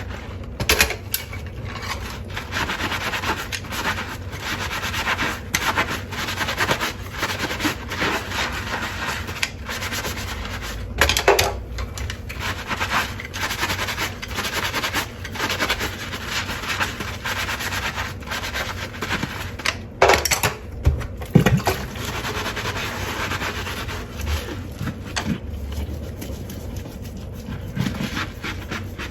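Dishes being scrubbed by hand while dishwashing: steady rubbing and scraping against the dishware, with frequent light clinks and knocks as pieces are handled, and a few louder knocks.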